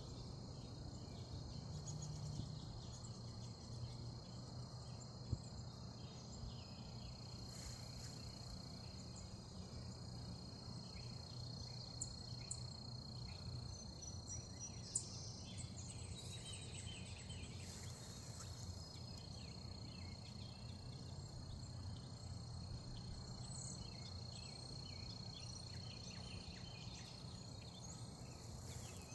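Outdoor garden ambience: small birds chirping now and then, over a steady high-pitched hum and a faint low rumble.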